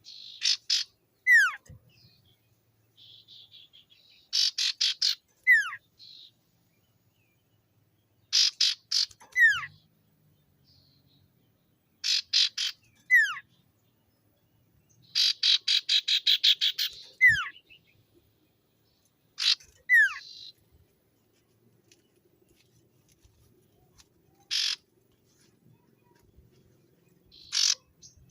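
Common iora (cipoh) singing: phrases of rapid repeated notes, many ending in a quick downward-slurred whistle, repeated every few seconds with short pauses between.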